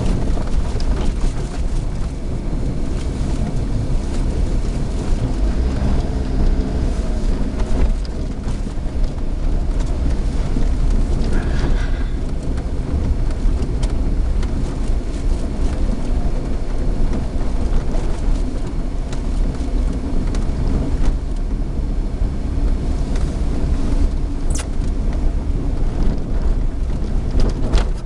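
Suzuki Alto 4WD kei car driving on a snowy road, heard from inside the cabin: a steady engine hum under a constant low rumble of tyre and road noise.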